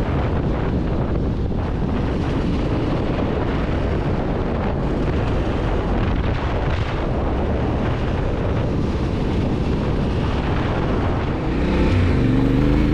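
Wind buffeting the microphone of a moving Yamaha Ténéré 700, with the bike's engine running underneath. About a second before the end the engine note comes through clearly and rises slightly as it accelerates.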